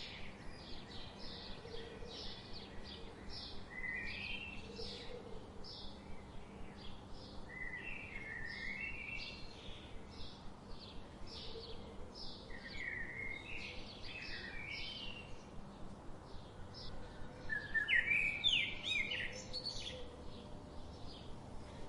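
Several songbirds singing: short high notes repeating about twice a second, with lower warbling phrases every few seconds and the loudest phrase about eighteen seconds in. A faint steady rush of river water runs underneath.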